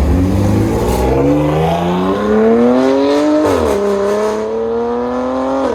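A car's engine revving hard as it accelerates away, its pitch climbing steadily, dipping briefly about three and a half seconds in at a gear change, then climbing again before the throttle is lifted and it drops off sharply at the end.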